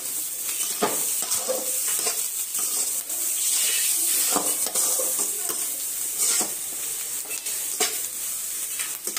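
Masala sizzling as it fries in oil in a metal kadai, with a metal spatula stirring and scraping through it and clicking against the pan now and then. This is the ground spices being fried into the stuffing.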